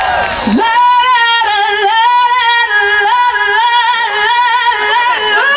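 A woman's unaccompanied live vocal ad-lib through a PA system: held high notes and quick runs stepping up and down in pitch. It starts about half a second in, as the backing music cuts out.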